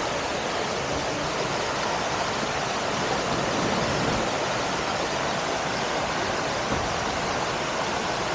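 Waterfall water rushing over rocks: a steady, even roar of falling and cascading water that does not change.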